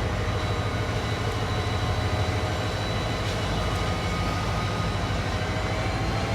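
Train running by: a steady low rumble with a steady engine tone over it, the pitch beginning to rise slowly near the end.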